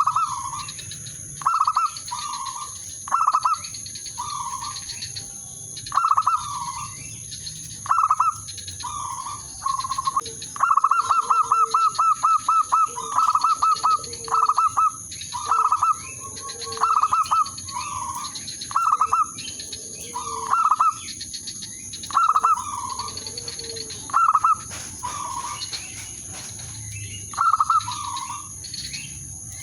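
Zebra doves (perkutut) cooing: short, soft phrases repeated every second or two, with a quick stuttering run of clipped notes about eleven seconds in.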